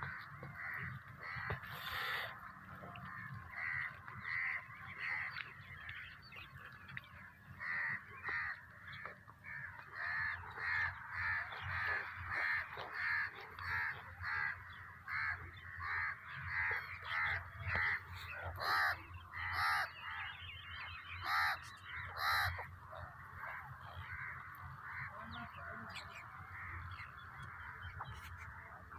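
Crows cawing over and over, a steady run of calls about two a second that is loudest through the middle, over a continuous background of other bird calls.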